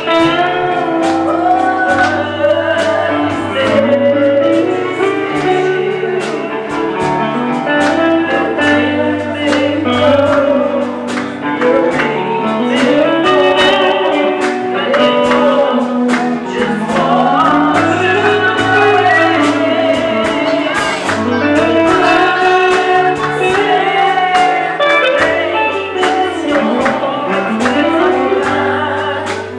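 Gospel song: a voice singing over guitar, with low bass notes and a steady beat.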